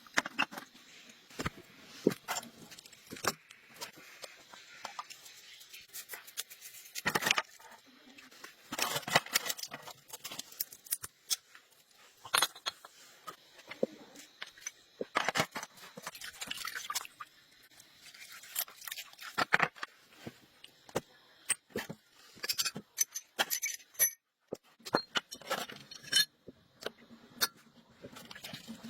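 Small metal parts and hand tools clinking and knocking irregularly, in bursts of sharp clicks with short pauses between.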